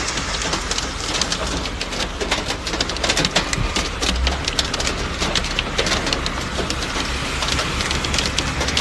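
Heavy rain falling, with many sharp drop impacts close by and a steady low rumble underneath.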